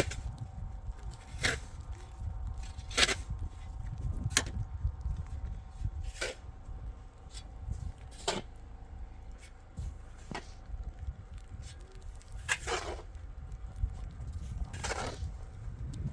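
Snow shovel strokes crunching and scraping into snow, one about every one and a half to two seconds, the last two near the end drawn out longer, over a steady low rumble of wind on the microphone.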